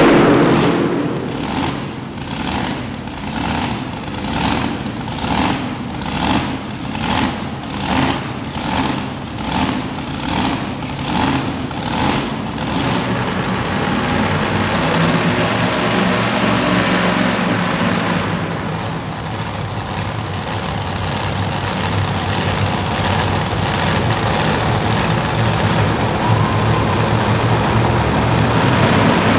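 Super modified two-wheel-drive pulling truck engine running after a full-throttle pull. For about the first half it swells and fades in a quick rhythm, about one and a half pulses a second, then it settles into a steadier idle that builds slightly near the end.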